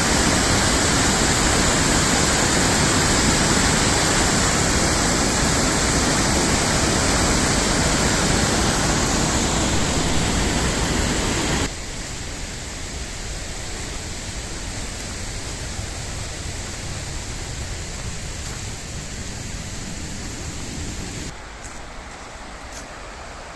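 Mountain river rushing: a steady wash of flowing water that drops suddenly in level about halfway through, and again near the end, where a few faint clicks come through.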